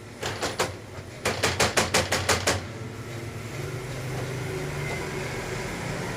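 A quick run of sharp clicks or knocks: three, then about eight in quick succession. About three seconds in, an air conditioner's fan starts running with a steady hum that builds a little.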